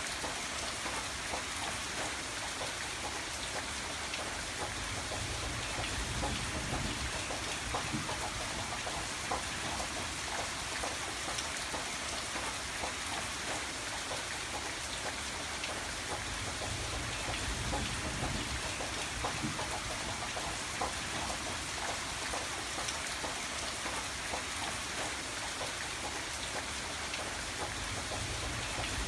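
Steady rain falling, a dense patter of drops, with a low rumble swelling up twice, about six and about seventeen seconds in.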